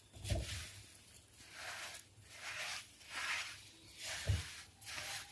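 A spoon mixing sugar into mashed sweet potato, making soft, wet scraping strokes about every three-quarters of a second.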